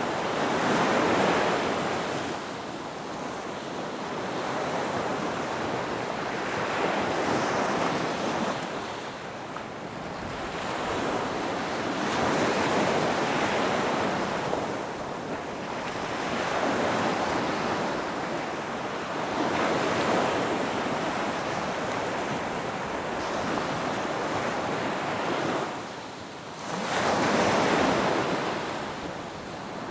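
Ocean surf breaking on a beach: waves rush in one after another every few seconds, each swelling and then fading as the water recedes. A short lull comes near the end, then one of the loudest waves breaks.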